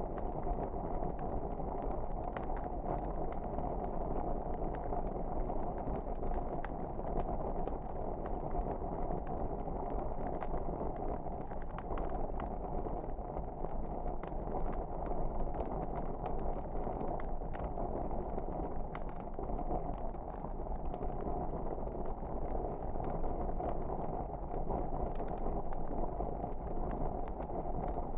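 Wood fire burning in a fireplace: a steady low rush of flame with frequent small crackles and pops scattered throughout.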